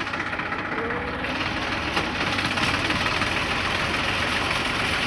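Deutz-Fahr tractor's diesel engine running steadily.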